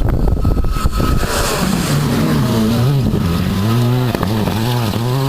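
Rally car engine revving hard, its pitch rising and falling over and over. A rough rumbling noise covers the first second.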